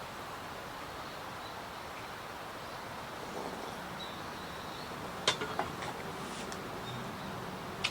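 Steady outdoor background hiss with a few faint high bird chirps. Sharp short clicks come three times in quick succession about five seconds in and once more near the end.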